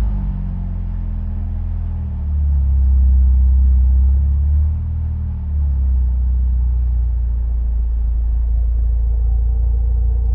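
Nissan 240SX engine idling while it warms up, its revs falling back to idle just as it begins. A steady low hum follows, swelling briefly a few seconds in.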